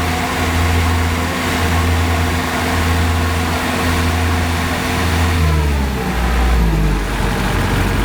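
Kubota DC70 combine harvester's diesel engine running steadily; about five and a half seconds in, its pitch drops as the engine slows.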